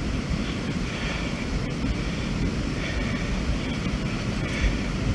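Wind buffeting the microphone of a handheld camera outdoors: a steady low rumble, with faint hissing swells every second or so.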